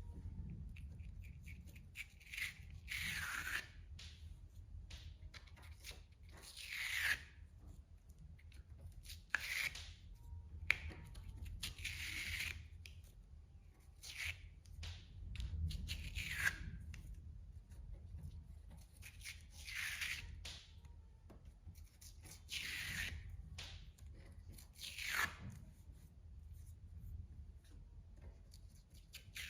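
Felt being peeled off the sticky cutting mat of a ScanNCut cutting machine: about nine short ripping pulls, one every two to three seconds, over a low steady hum.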